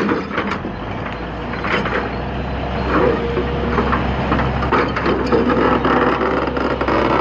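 Hitachi ZX200 hydraulic excavator working while it loads a truck: its diesel engine runs steadily under load, with scattered knocks and clanks from the machine and the load.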